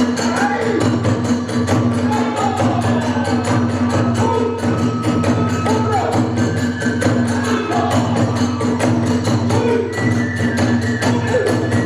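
Kagura music: a fast, even beat of drum and small hand cymbals, about four strikes a second, under a flute melody.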